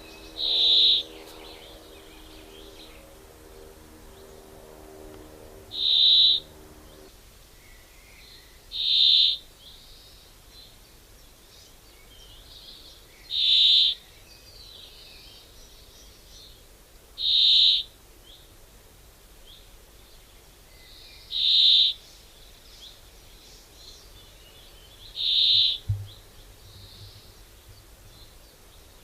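A bird's short, high call, repeated about every four seconds.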